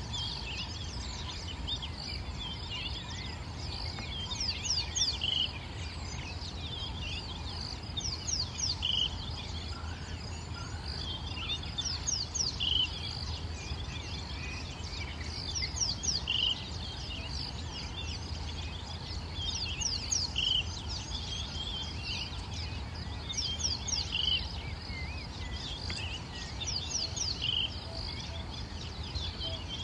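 Birds chirping and calling in the bush: one short call repeats about every three to four seconds among clusters of quick falling chirps, over a steady low background rumble.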